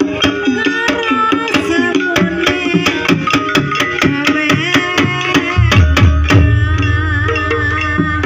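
Live Javanese ebeg accompaniment music: hand drums struck in a fast, even pattern under melodic instruments playing a wavering high melody. A deep low note comes in about five and a half seconds in and holds.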